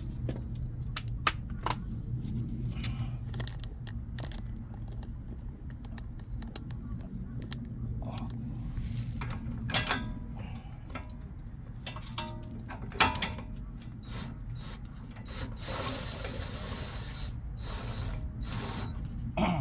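Irregular metallic clicks and clinks as a wheel bearing press tool is assembled on the hub: bearing, washer and a 32 mm nut fitted onto the threaded rod and run down, with two sharper knocks around the middle. A steady low hum runs underneath.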